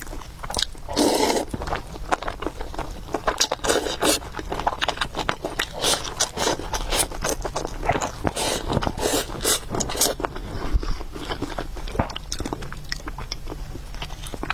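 A person eating noodle soup close to the microphone: chewing and slurping, with many short clicks and scrapes.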